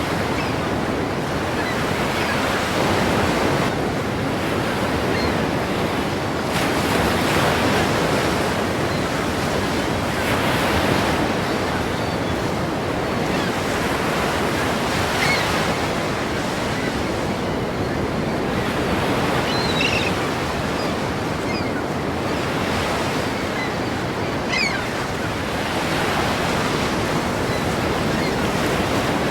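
Ocean waves breaking and washing in a continuous rush of surf that swells and eases every few seconds.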